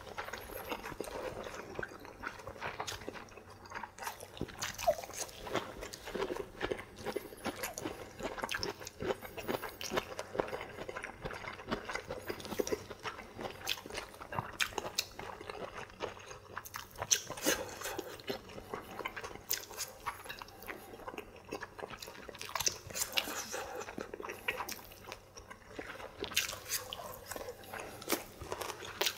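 Two people chewing and biting food close to the microphone: wet mouth sounds with crunching of steamed broccoli, many small irregular clicks throughout.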